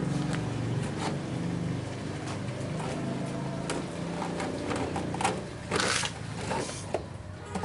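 Scattered clicks, knocks and rustles of handling a plastic washing-machine drain hose and its fittings, busiest in the second half. Under them runs a low steady motor hum, most prominent in the first three seconds.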